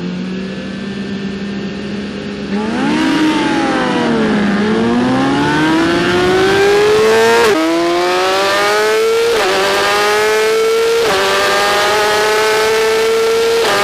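BMW S1000RR inline-four superbike engine held at steady revs, then launching off the start about two and a half seconds in: the revs rise and sag as it pulls away, then climb hard through four quick upshifts, each a sudden drop in pitch.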